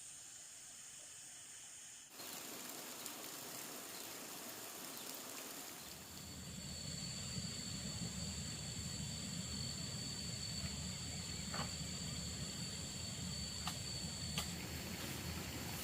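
Outdoor ambience of insects singing a steady high-pitched drone over a continuous hiss. The hiss jumps up about two seconds in, a low rumble joins about six seconds in, and a few light clicks come near the end.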